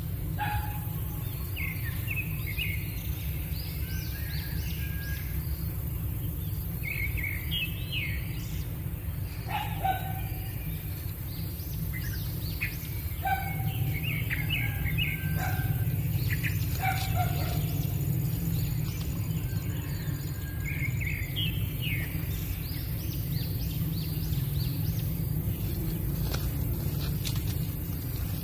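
Birds chirping and calling in short, repeated notes, some gliding downward in pitch, over a steady low rumble and a constant high hiss.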